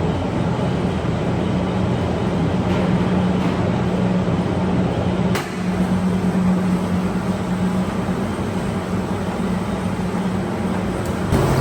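Tea-processing machinery running with a steady low hum and a dense mechanical rumble. There is a short click about five seconds in.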